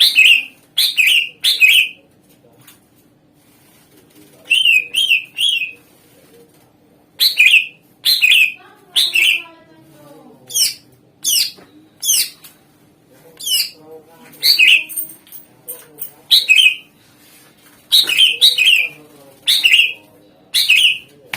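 Cucak ijo (green leafbird) song: loud, sharp notes that sweep quickly downward in pitch, given singly and in quick runs of two to four with short pauses between, over a faint steady hum.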